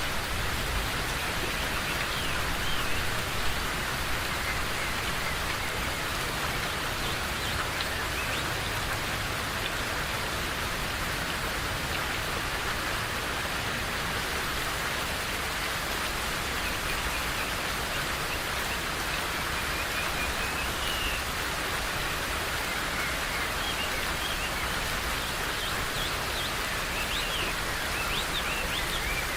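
Steady rain falling in a forest, with faint, brief bird chirps now and then, more of them near the end.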